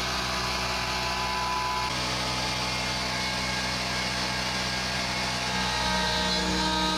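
CNC router running while cutting acrylic: a steady motor drone with several whining tones that change pitch about two seconds in and again near the end.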